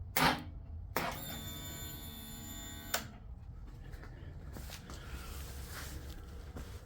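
2005 Suzuki SV650 V-twin being cranked on a freezer-cold lithium battery. A click comes just after the start, then the starter motor whines for about two seconds and stops abruptly without the engine catching.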